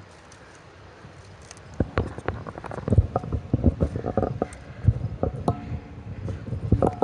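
Footsteps on rock: irregular knocks and scrapes of a hiker stepping across rocks, starting about two seconds in after a quiet stretch of faint hiss. A few steady held tones come in near the end.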